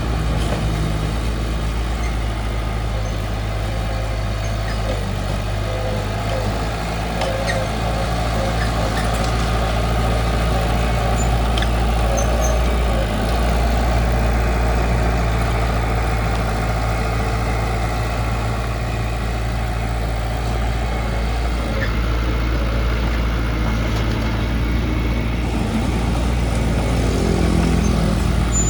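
Heavy construction vehicle's diesel engine running steadily with a deep, even hum, its pitch rising briefly near the end.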